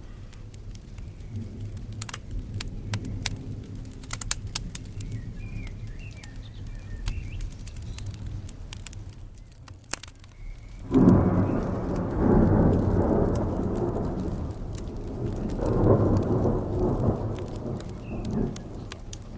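A thunderclap breaks in suddenly about halfway through and rolls on, swelling once more a few seconds later, over steady rain and sharp scattered crackles of a wood fire.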